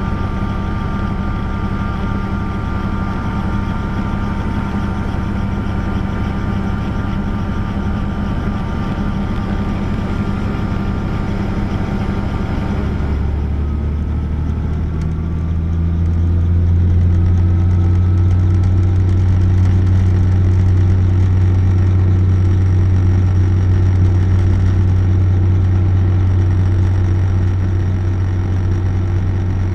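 Helicopter engine and rotor running steadily. About 13 s in the higher whine fades and a strong low drone builds, louder from about 16 s on.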